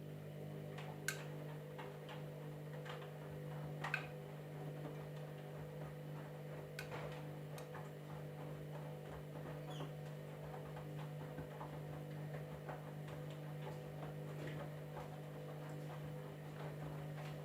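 Candy washing machine running through a cycle: a motor hum at a steady pitch starts at the outset and cuts off near the end, with light scattered clicks and ticks throughout.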